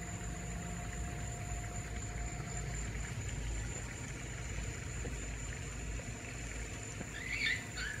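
Steady low background hum with a thin high whine. About seven seconds in there is a short, wavering bird call.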